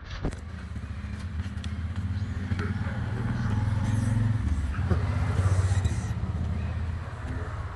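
A motor vehicle's engine running steadily as it goes by close to the microphone, growing louder to a peak about two-thirds of the way through and then easing off.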